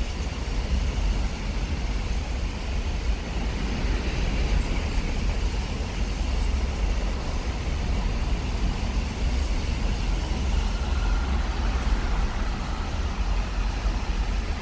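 Long container freight train rolling steadily past: a continuous rumble and rail noise from the wheels of its loaded container wagons on the track.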